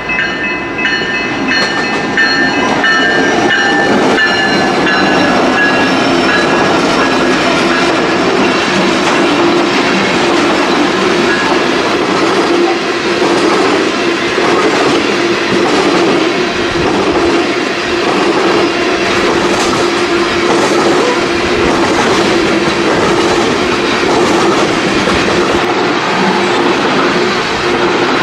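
A loaded coal train, led by three BNSF SD70ACe diesel locomotives, passing close by. A horn chord falls slightly in pitch and fades over the first few seconds. After that come the steady noise of the loaded cars' wheels on the rail and a rapid clatter over rail joints.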